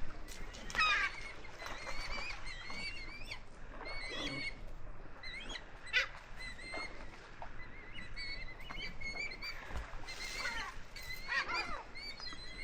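A crowd of birds at a feeding frenzy, calling over and over: many short, high, wavering cries overlapping one another, with a single sharp click about six seconds in.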